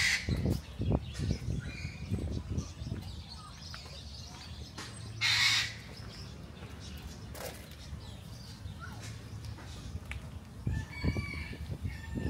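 Birds calling: one harsh screech about five seconds in, and a run of short pitched calls near the end. Low thumps are heard in the first few seconds.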